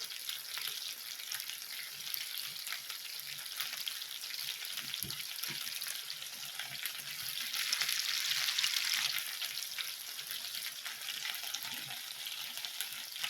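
Marinated chicken kebabs sizzling in oil on an indoor grill: a steady crackling hiss with many small pops, swelling louder about eight seconds in. There is one soft knock about five seconds in.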